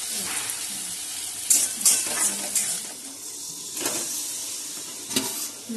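Onion and tomato masala sizzling in hot oil in a metal wok while a steel spatula stirs and scrapes the pan, with a few sharp scrapes and knocks. Near the end, marinated chicken pieces are tipped into the pan from a bowl.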